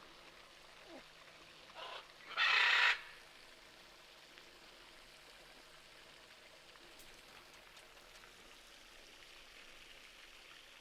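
Quiet background hum, broken about two seconds in by one short harsh squawk, typical of a parrot, lasting under a second.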